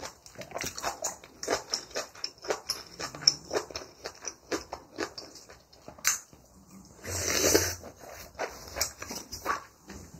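Close-miked eating sounds of a person chewing soft braised kimchi and rice soaked in water: quick wet smacks and clicks of the mouth, several a second, with one louder, longer noisy mouth sound about seven seconds in.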